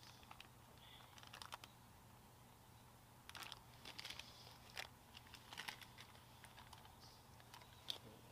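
Faint handling noise: soft crinkling and light clicks, scattered and irregular, over a low steady hum.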